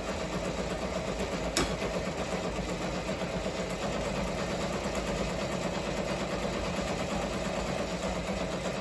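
Ricoma MT-1501 multi-needle embroidery machine running steadily as it stitches a design, its rotary hook timing just reset after needle breaks. A single sharp click about a second and a half in.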